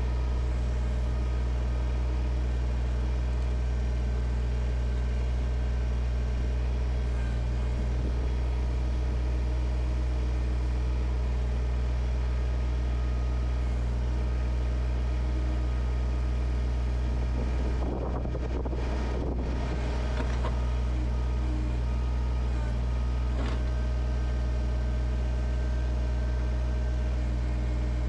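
Kubota BX23S tractor's three-cylinder diesel engine running steadily while its backhoe digs a footing hole. A brief rougher patch comes about two thirds of the way through.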